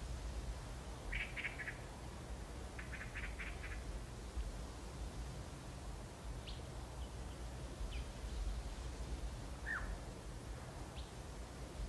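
Birds chirping: scattered short high calls, with a quick run of about five notes around three seconds in, over a steady low hum.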